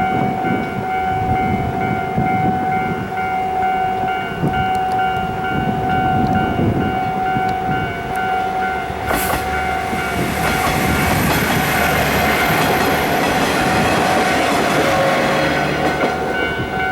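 Level-crossing warning bell ringing in a steady, even rhythm, while a train of KiHa 40-series diesel railcars approaches and passes the crossing; the train's noise comes in sharply about nine seconds in and builds into dense wheel-and-engine rumble under the bell.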